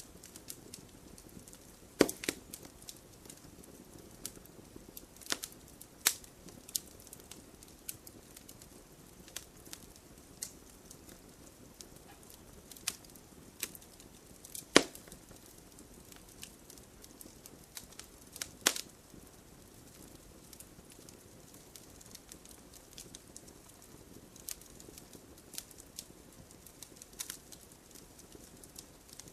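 Campfire crackling: wood burning with a low steady rush under scattered sharp pops and snaps, the loudest about 2, 6, 15 and 19 seconds in.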